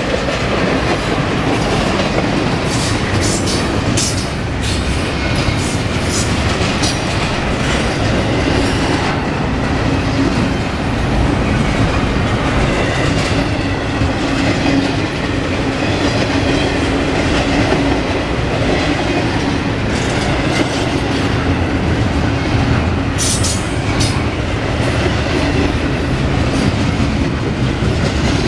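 Double-stack intermodal freight train's loaded well cars rolling past close by: a steady, loud rumble of steel wheels on rail with a clickety-clack of the trucks. Sharp metallic clicks and squeaks come a few seconds in and again near the end.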